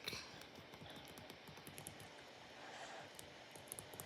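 Near silence with faint, scattered light clicks.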